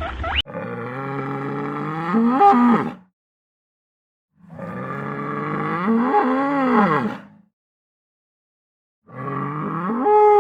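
A large animal giving three long, drawn-out calls of about two and a half seconds each, with silent gaps between them. Each call wavers in pitch and rises near its end; the third is still going at the end.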